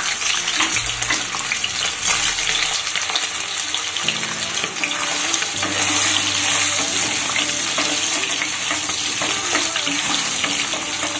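Boiled soya chunks sizzling and crackling steadily as they fry in hot oil in a non-stick kadai, turned now and then with a wooden spatula.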